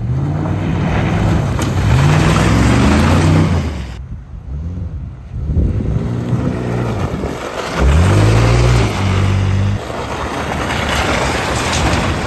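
Two-wheel-drive pickup truck's engine revving hard several times, each rev rising in pitch, with rough tyre and mud noise as it drives through a small mud hole.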